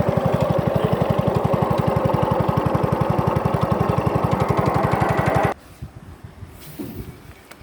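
Small boat engine running steadily with an even, rapid pulse. It cuts off abruptly about five and a half seconds in, as the engine is shut down.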